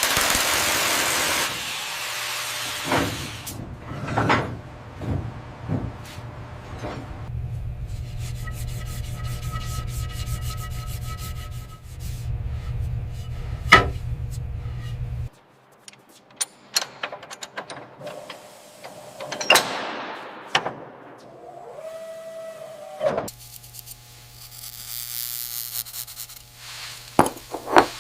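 A run of workshop tool and machinery sounds. It opens with a loud hiss, then a low machine drone that cuts off abruptly about halfway through. Scattered knocks and scraping run throughout, with one sharp knock about halfway in.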